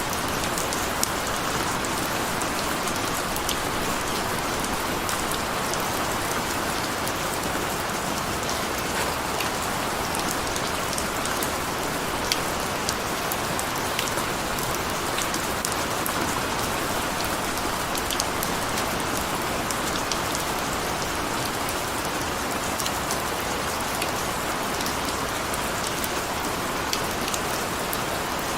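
Steady rain falling on a surface, an even patter with scattered sharper drop ticks.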